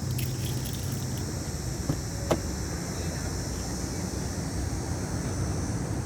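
Steady background noise with a low hum and a high, even hiss, broken by two short, sharp clicks about two seconds in.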